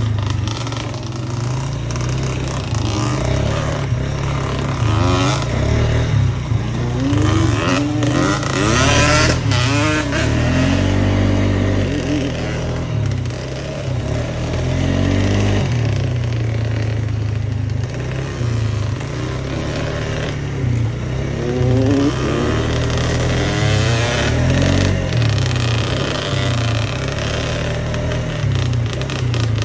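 Off-road vehicle engine under load on a fast trail ride, its pitch repeatedly climbing as it revs and dropping back off the throttle.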